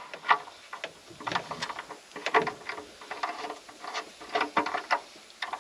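Irregular clicks, clinks and knocks of hand tools and parts being handled during engine work, about one or two a second.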